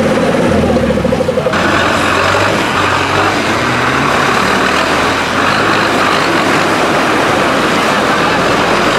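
Tractor engine running loudly. About a second and a half in, the sound changes suddenly to a rougher, noisier engine sound.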